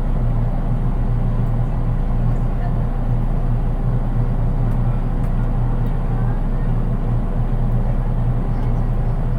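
Running sound inside the unpowered KuHa 183 driving trailer car of a JR East 183 series DC electric train: a steady low rumble of the car rolling along the track, with no traction motor in the car.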